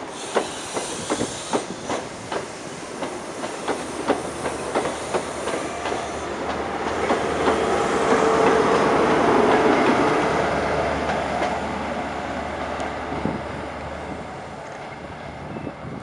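CrossCountry HST (InterCity 125) Mark 3 coaches rolling slowly past, their wheels clicking over rail joints. The train noise swells to its loudest a little past halfway, then eases off.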